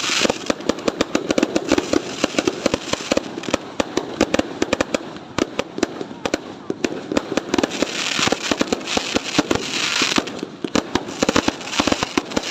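Fireworks going off in a dense, continuous barrage: many sharp bangs and crackles a second, with stretches of hiss between them.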